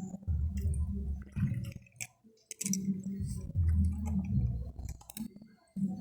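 Scattered clicks and knocks of plastic water-pipe fittings being handled and fitted, over an uneven low rumble.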